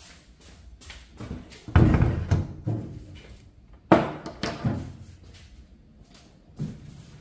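A series of knocks and clunks, as of something solid being handled and set down, with two loud knocks about two seconds apart, each dying away briefly.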